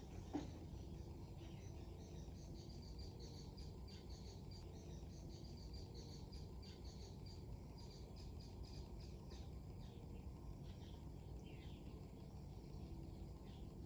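Outdoor lakeside ambience: a steady low rumble of strong wind on the microphone, with many short, high chirps repeating throughout.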